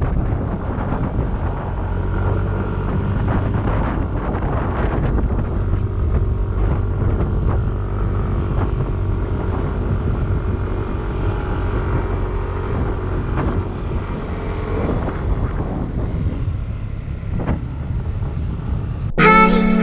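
Yamaha Aerox 155 scooter's single-cylinder engine running steadily while riding, under heavy wind buffeting on the microphone. Guitar music starts suddenly near the end.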